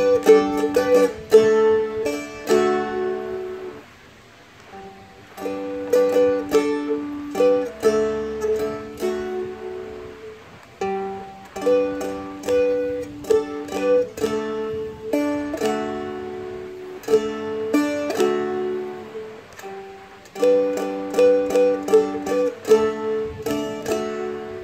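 Seagull Merlin M4, a four-string fretted dulcimer-style instrument, picked and strummed through a slow passage of chords that climbs to a barred G and reaches up the neck. The same short phrase is played several times over, with brief gaps between the passes.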